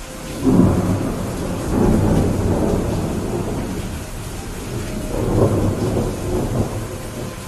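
Thunder rumbling over steady rainfall: a loud rumble breaks about half a second in and swells again around two seconds and five and a half seconds in, under an even hiss of rain.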